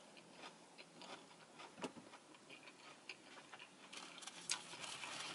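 Close-up chewing of a lettuce-wrapped burger: faint, irregular wet mouth clicks and small crunches, with a sharper click about two seconds in and another near the end.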